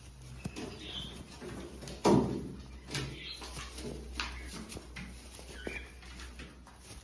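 Domestic pigeons moving about and calling softly over a steady low hum, with one sharp knock about two seconds in.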